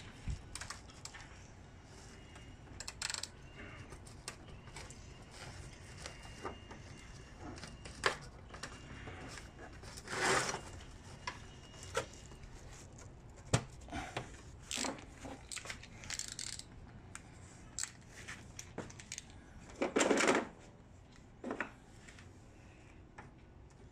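Hand tools and metal parts clinking and clicking while a 10 mm nut on a Bendix purge valve is worked loose, in scattered sharp clicks with two short, louder bursts of handling noise, about ten seconds in and again about twenty seconds in.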